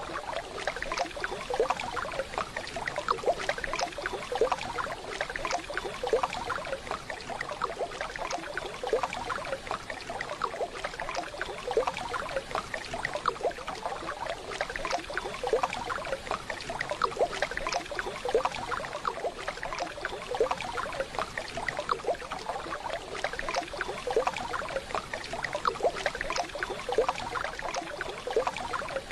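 Waterfall water running and splashing: a steady rush full of small irregular splashes.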